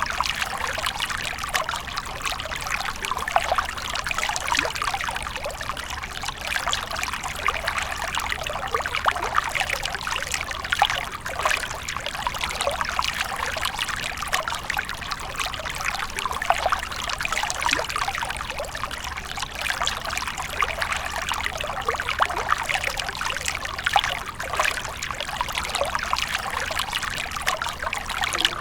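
Water from a fountain splashing and trickling steadily into a pool, an even stream of small splashes.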